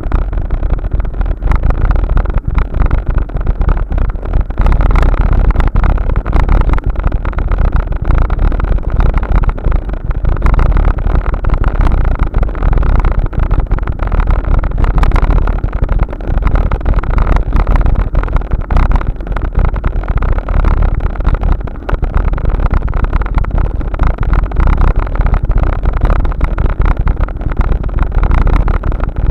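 Wind buffeting the microphone of a camera riding along on a bike, a loud steady rush mixed with constant small rattles and knocks.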